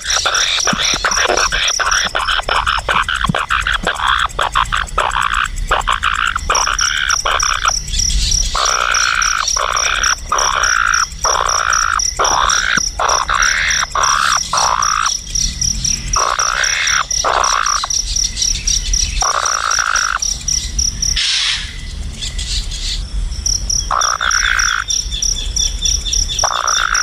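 Frogs calling: a long run of short croaks that fall in pitch, coming thick and fast at first, then spaced a second or two apart. Underneath is a steady, high, pulsing insect trill that drops out twice.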